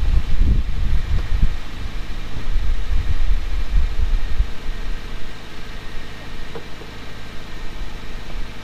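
A car engine idling steadily, with gusts of wind rumbling on the microphone through the first half.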